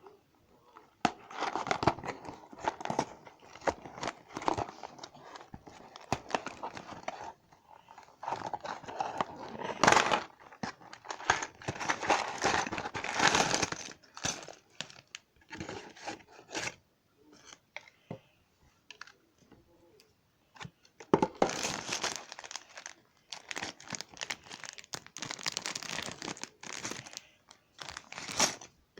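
Packaging of a LEGO set being torn open and crinkled: irregular bursts of tearing and rustling, with a quieter stretch of a few seconds around the middle.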